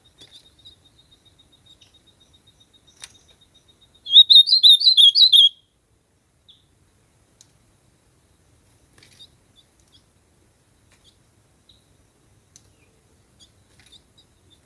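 Ultramarine grosbeak (azulão) singing one short, fast warbled phrase about four seconds in, lasting about a second and a half, followed by a few faint scattered chirps.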